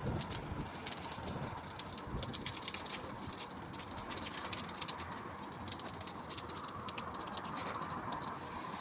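Rain pattering on surfaces in a storm, a dense run of fine drop ticks, with wind gusting against the microphone as low rumbles, strongest in the first second.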